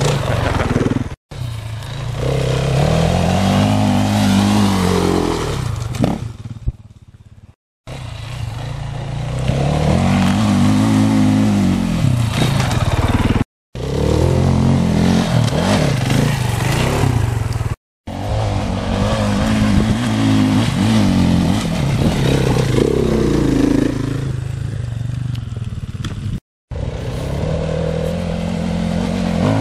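KTM enduro motorcycle engines revving up and down as the bikes climb a hillside trail, the pitch repeatedly rising and falling. The sound breaks off abruptly several times between short clips.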